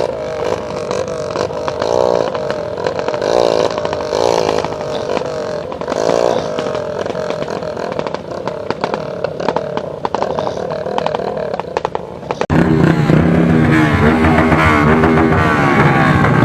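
Motorcycle engines running and revving as bikes ride by, their pitch rising and falling. About twelve seconds in, the sound switches suddenly to a louder, steady engine close by.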